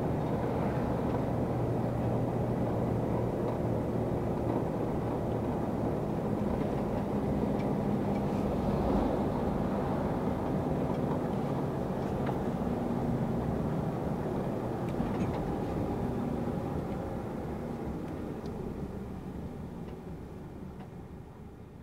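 Truck engine and road noise while driving: a steady drone that fades out over the last few seconds.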